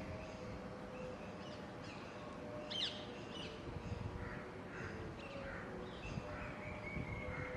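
Several birds calling, a scatter of short chirps and calls with one louder, sharper call about three seconds in, over a low background rumble.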